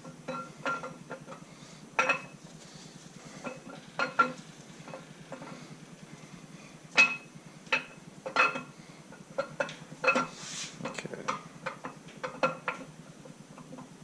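Irregular sharp metallic clinks and clanks of steel engine parts and tools being handled and set down during an LS V8 teardown, several ringing briefly at the same pitch.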